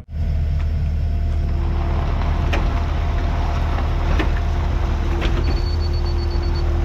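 Diesel engine of compact earthmoving equipment running steadily under work, with a deep constant hum and a few sharp clanks and clicks scattered through it.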